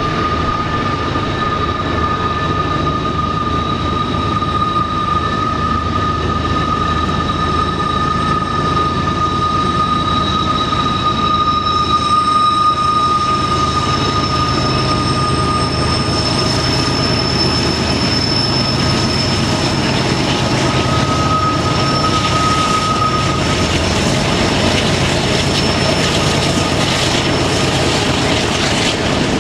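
Canadian Pacific freight train climbing on a curve, its wheels squealing in long steady high tones over a low rumble and hiss. The main squeal fades out near the end.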